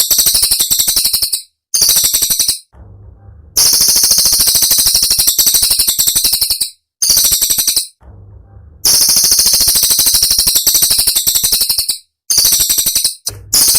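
Cililin songbird singing fast, dense rattling trills of sharp high notes, about fifteen notes a second, in loud phrases of one to three seconds with brief pauses between them.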